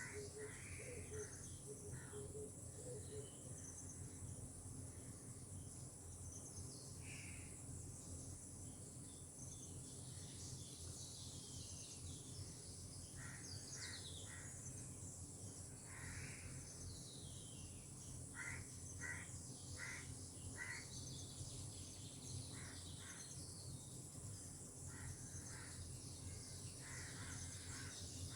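Birds calling in the open: groups of short repeated notes and higher chirps, over a steady high hiss and a low background rumble.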